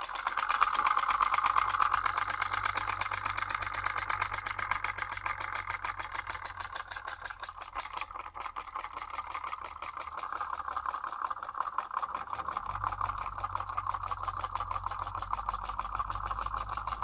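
Homemade solenoid engine running with a fast, steady clatter of clicks.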